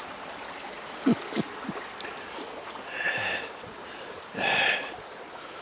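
Steady running creek water, with a few soft low thumps about a second in and two short wheezing breaths, the second, near the end, the loudest.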